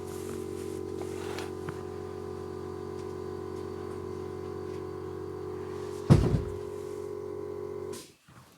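A steady mechanical hum of several even tones, with one loud knock about six seconds in; the hum cuts off abruptly near the end.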